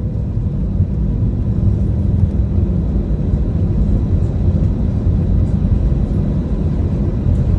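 Steady low rumble inside the cabin of an Airbus A320 rolling on the ground after landing: engine and airframe noise with the wheels on the pavement, and a few faint steady tones above it.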